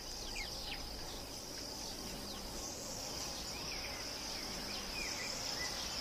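Steady, high-pitched chorus of insects, with short, faint high chirps scattered through it.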